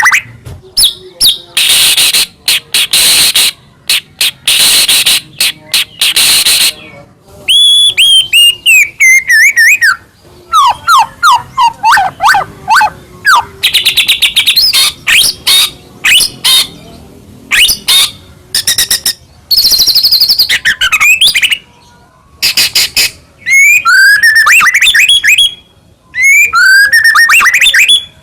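White-rumped shama (murai batu) singing loudly in a long, varied song. Harsh rasping notes in the first few seconds give way to falling whistled glides, rapid rattling trills and swooping rising-and-falling phrases, with short pauses between bouts.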